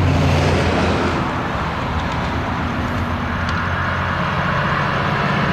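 Diesel coal train running past: a steady low locomotive engine drone over the rumble of wheels rolling on the rails, easing slightly and then building again in the second half.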